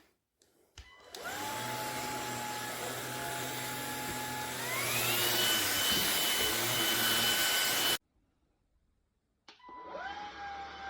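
Cordless stick vacuum's brushless motor switching on and spinning up with a rising whine. About halfway through it steps up to a higher, louder pitch. It cuts off abruptly, then switches on and spins up again near the end.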